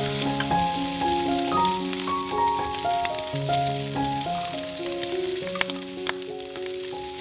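Shrimp, pork belly and onion sizzling steadily in a hot oiled skillet. Background music of short melodic notes plays over it throughout.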